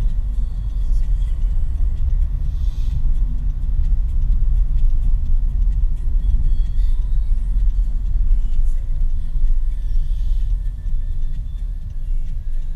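Steady low rumble of a car driving, heard from inside the car: engine and road noise.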